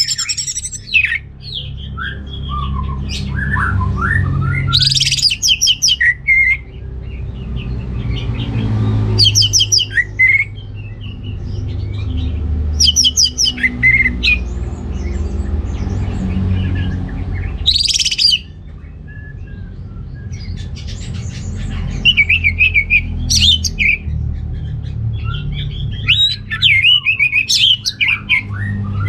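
Orange-headed thrush singing a long, varied song of whistled and chattering phrases, with bursts of fast repeated high notes every few seconds. A steady low hum runs underneath.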